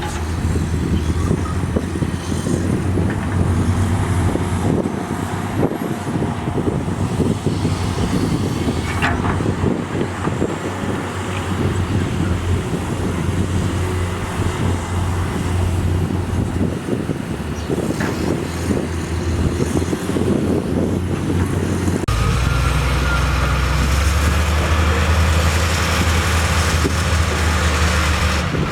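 Heavy diesel construction machinery working: a steady low engine drone with irregular clanking and scraping over it. The sound changes abruptly about three quarters of the way through, to a smoother, heavier engine drone.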